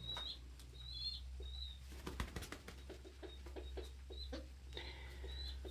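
Pigeon squabs peeping: short, high squeaky peeps every second or so, with scattered light clicks and taps and a burst of taps about two seconds in.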